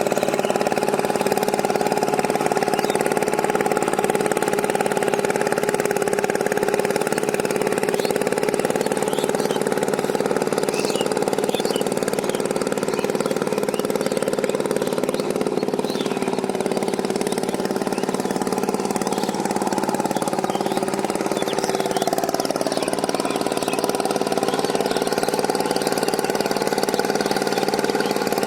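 Power tiller engine running steadily at an even pitch.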